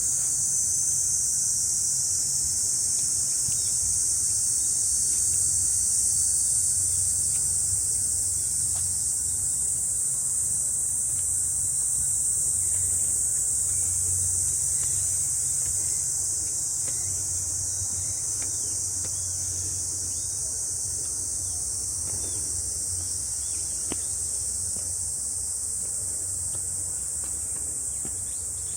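Chorus of summer cicadas droning steadily in a high, continuous hiss, with a low rumble underneath.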